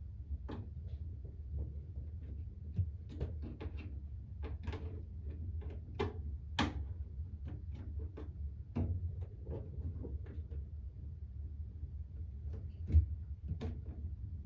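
Scattered light clicks and knocks of hands handling the plastic drain pump filter at the washer's filter opening, with one louder knock near the end, over a low steady hum.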